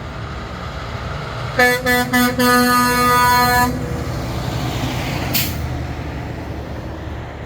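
Semi-truck air horn blown in three short toots followed by one long blast, over the steady rumble of passing truck engines; a brief hiss of air follows a couple of seconds later.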